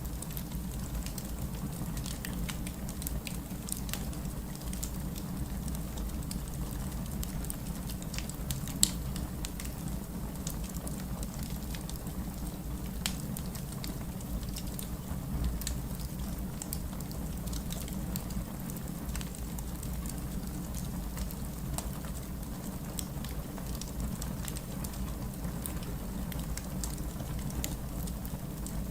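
Steady heavy rain mixed with a crackling wood fire: a continuous low rumble and hiss of rain with irregular sharp pops and snaps from the fire, one louder pop about nine seconds in.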